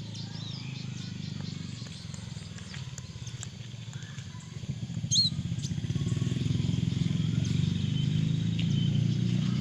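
Small birds chirping over the steady hum of an engine, which grows louder about halfway through. There is one sharp, rising chirp just after the midpoint.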